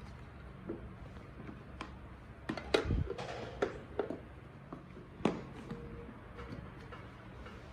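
Scattered light knocks and clicks of kitchen items being handled and set down, with a small cluster of knocks about three seconds in and a single sharper knock after five seconds.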